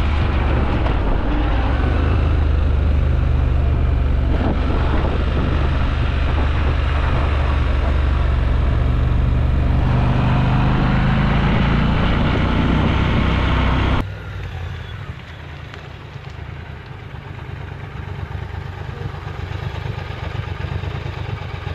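Triumph Scrambler 1200 XE's parallel-twin engine running as the bike is ridden, heard loud from on the bike with a steady rushing noise, its pitch rising partway through as it pulls away. After a sudden cut about two-thirds in, the engine is quieter and grows louder as the bike rides up.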